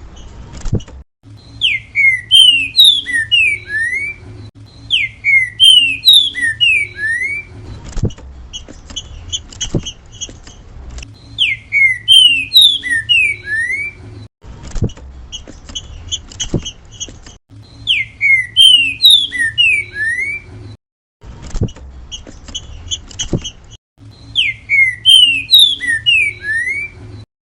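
Green-winged saltator (trinca-ferro) singing its 'grego mole boi' song: a phrase of several clear, slurred whistled notes, repeated about every six to seven seconds, with runs of short quick notes between phrases and a low steady hum underneath.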